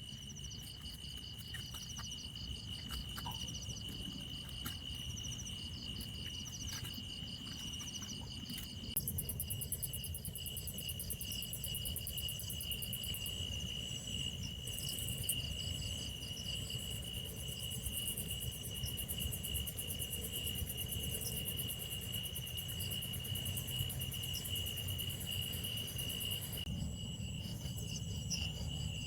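Night insects calling together: a steady high chirring with several pulsing trills over it. A faster, higher pulsing joins about nine seconds in and stops near the end, all over a steady low rumble.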